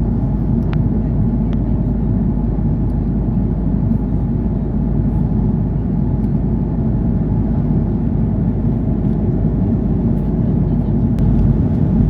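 Steady low roar of airliner cabin noise inside an Airbus A330-300, with a few faint clicks.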